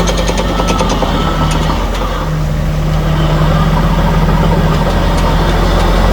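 Heavy bulldozer's diesel engine running steadily, with a quick run of even clicking from its tracks in the first second.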